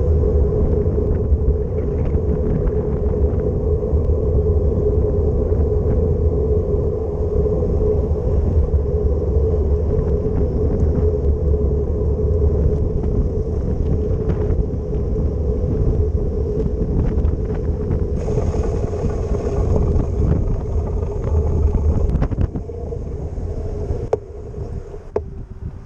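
Wind buffeting the microphone as a steady low rumble, over city traffic and road noise with a steady hum, easing off near the end.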